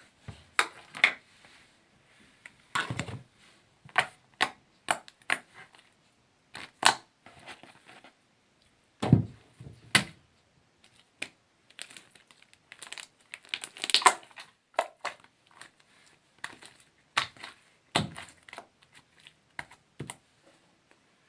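Hands squishing and pulling slime, making irregular sticky clicks, pops and crackles with short pauses between them.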